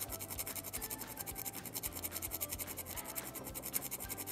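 Small hand file rasping on the bare die-cast metal of a toy car body, in quick, even back-and-forth strokes, several a second, trimming the edge of a window opening.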